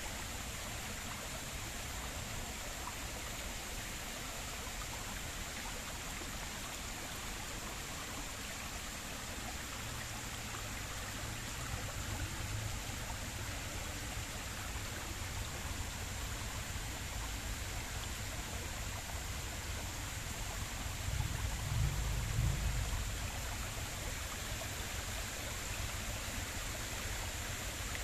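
Stream water flowing steadily, with low rumbles rising from about ten seconds in and loudest around twenty-one to twenty-three seconds in.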